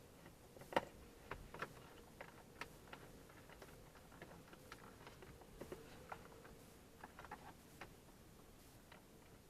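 Faint, irregular small clicks and ticks of a hand screwdriver working a screw out of plastic dashboard trim, with one sharper click about a second in.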